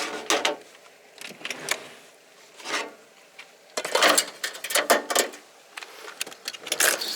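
Irregular rustling and clattering of food packaging being handled, in a string of short, scattered noises with quiet gaps between them.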